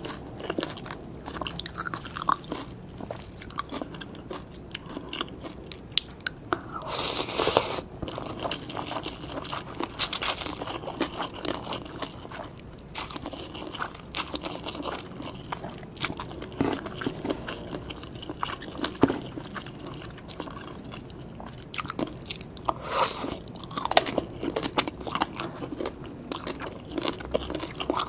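Close-miked eating of green papaya salad: crisp crunching bites and chewing of the shredded raw papaya and vegetables, with a few louder crunches along the way.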